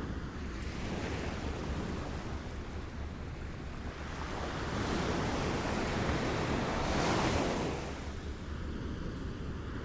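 Small waves lapping at the shore, a steady wash of water with one wave swelling up about halfway through, peaking and then falling away.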